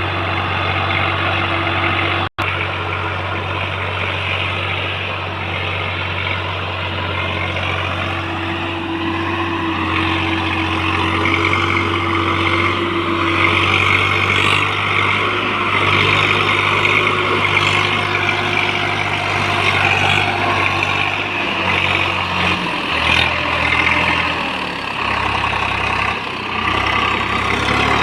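John Deere tractor's diesel engine running steadily while pulling a heavily loaded trolley. Its engine note shifts and turns uneven near the end.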